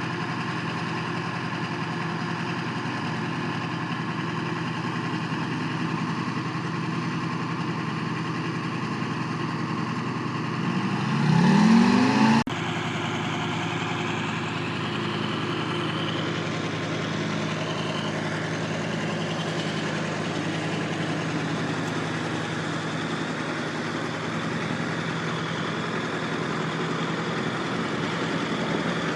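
5TM Trackmobile railcar mover's engine idling steadily. About ten seconds in it is revved briefly, rising in pitch and getting louder, then cuts off suddenly and settles back to a steady idle.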